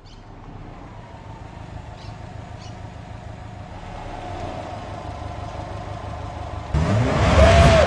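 2008 Subaru WRX STI's turbocharged flat-four engine running and growing slowly louder, then a sudden loud rev near the end that rises and falls in pitch.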